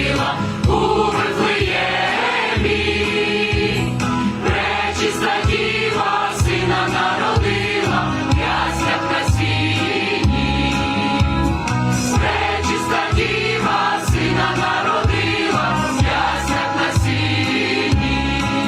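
Church choir singing a Christmas carol with instrumental accompaniment and a steady beat.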